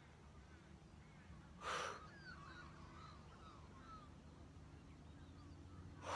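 Two short breaths close to the microphone, about four seconds apart, taken while holding a yoga pose. Faint bird calls and a low steady hum lie underneath.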